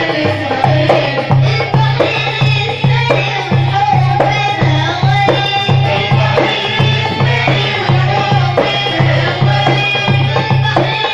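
Port Said simsimiyya folk music played by a band, with a drum keeping a steady beat about twice a second under the melody.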